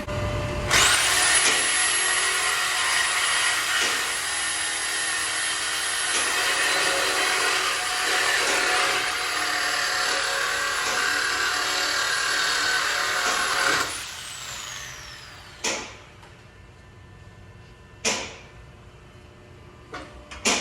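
A cut-off tool whines at a steady high pitch as it cuts through the car's steel exhaust pipe for about thirteen seconds, then spins down. A few short metal clanks follow.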